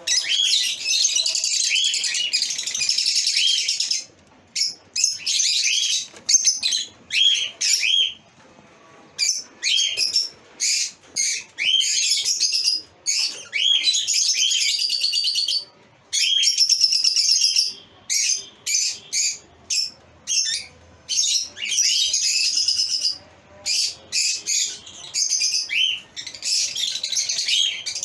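Lovebirds chirping and calling in rapid, overlapping bursts of short high chirps, with brief pauses between bursts.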